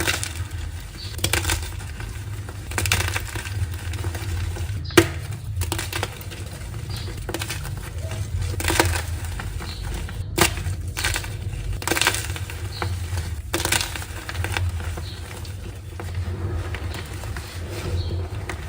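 Blocks of dyed gym chalk being crushed, giving irregular crisp crunches and crumbles, some sharper snaps among them, over a steady low hum.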